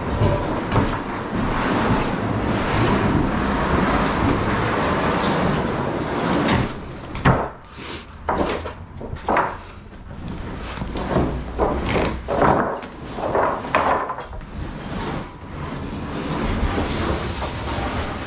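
Steady rumbling noise for the first several seconds, then a run of knocks and clatters from demolition debris being handled: carpet and broken lath and plaster.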